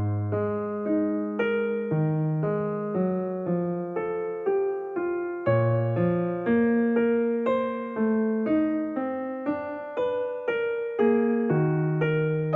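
Background piano music: a gentle melody of single notes and chords, struck at a steady, unhurried pace, each note fading after it sounds.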